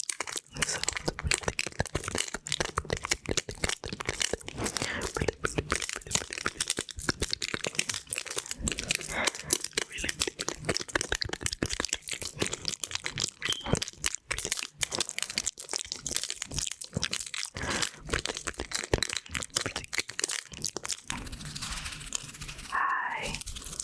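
Pins of a pin art toy clicking and rattling in a dense, rapid, continuous stream as they are pushed and shifted.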